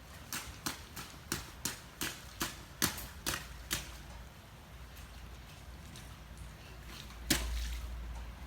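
A regular series of about ten sharp taps, roughly three a second, that stops after about four seconds. Near the end there is one louder knock, followed by a low rumble.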